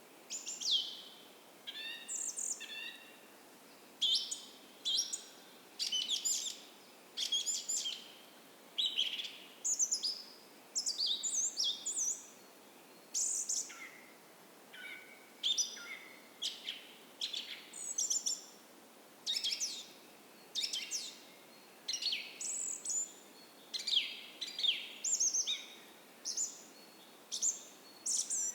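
Songbirds of a dawn chorus singing, short high chirping phrases coming one after another about once a second, over a faint steady rush of a creek.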